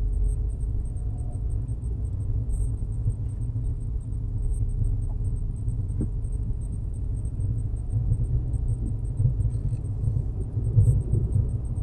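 Volkswagen Jetta Mk6 with a low, steady rumble.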